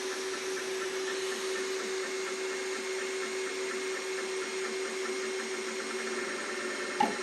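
Two Trees Sapphire Plus core XY 3D printer printing at 200% speed: stepper motors humming a steady tone over the cooling fans. A single short knock comes near the end, the kind of bumping-into-metal noise the owner keeps hearing and cannot place as the motor or a mechanical issue.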